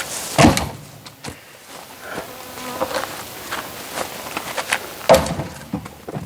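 Oak firewood being split by hand: two heavy blows on the log, about four and a half seconds apart, with lighter knocks of wood between them. The pieces are knotty, which makes them hard to split.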